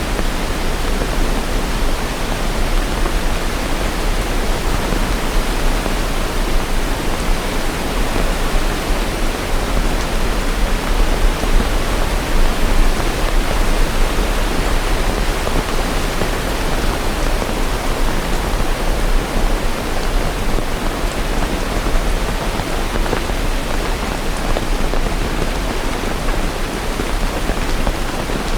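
Steady, heavy rain, heard as an even, dense hiss with no single drops or thunder standing out.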